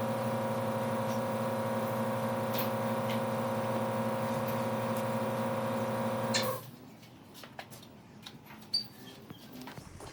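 A power tool's electric motor running at a steady speed, then cutting off abruptly about six and a half seconds in, followed by a few faint clicks and knocks.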